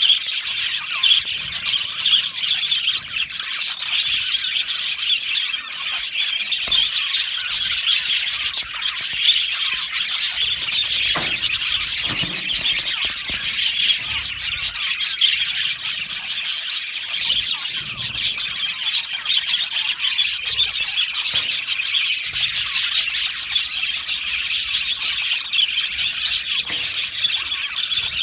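A flock of budgerigars in an aviary chattering and warbling continuously, with many overlapping high chirps and no pauses.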